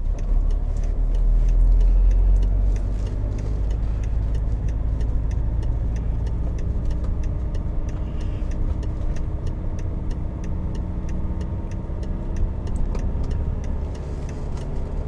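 Cabin sound of a BMW E60 5 Series on the move: a steady low road and engine rumble with light, regular ticking, and no creaking from the dash now that the loose strut brace has been re-bolted.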